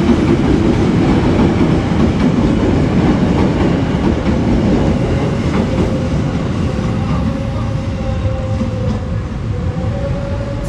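KRL Commuter Line electric multiple-unit train passing close by, a continuous steady rumble of wheels on the rails.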